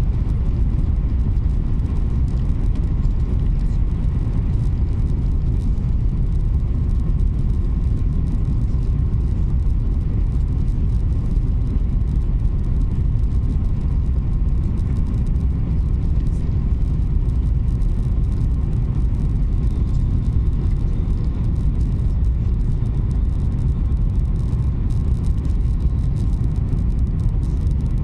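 Steady low rumble of an Alstom AGV (Italo ETR 575) high-speed train running at speed, heard from inside the passenger cabin, with a faint steady whine above it.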